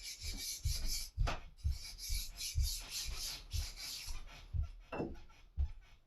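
Water-lubricated Edge Pro sharpening stone rubbed by hand in quick strokes along a lopper blade, about two strokes a second, pushing the burr back to the other side. The rasping hiss of the strokes fades after about four seconds, leaving lighter taps.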